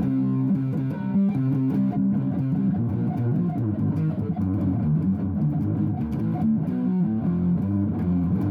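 Instrumental guitar music with a bass line, plucked notes changing in a steady rhythm.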